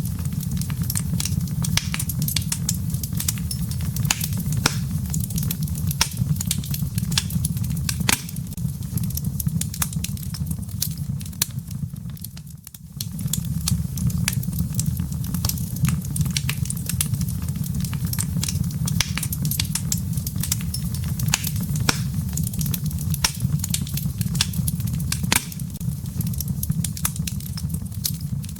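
Wood fire burning in a fireplace: a steady low rush of flames with frequent sharp crackles and pops from the burning firewood. The low rush drops out briefly near the middle.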